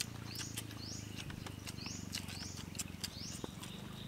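A bird repeats a short rising call about twice a second. Quick clicks and slurps from people eating noodles with chopsticks come with it.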